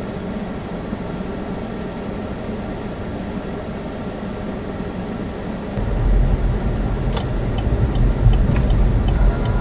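Chevy Spark cabin noise: steady engine and road rumble that grows louder about six seconds in, with a few sharp clicks near the end.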